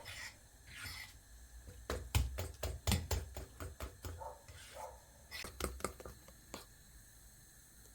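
A run of irregular light clicks and knocks, bunched together about two to four seconds in, with a few short rustles between them.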